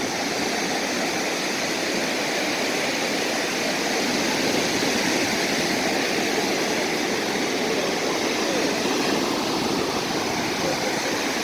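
Steady rushing wash of sea surf on the shore, an even hiss with no separate wave crashes.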